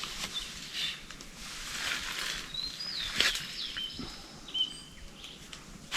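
Birds calling with short whistled notes, some sliding down in pitch, over rustling and a few sharp snaps or knocks, the loudest a little past three seconds in.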